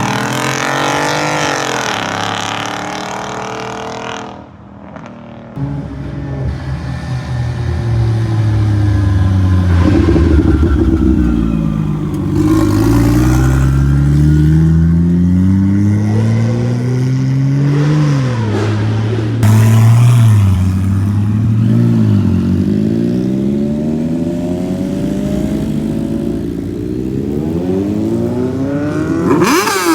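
Car engines revving hard and accelerating as cars pull out. The engine pitch climbs and drops several times, with overlapping engines at moments, and there is a sudden louder burst about two-thirds of the way through.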